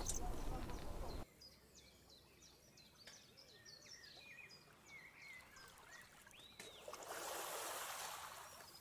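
Small birds chirping and twittering in many short, quick calls, after a steady rush of noise that cuts off suddenly about a second in. Near the end a soft swell of rushing noise rises and fades.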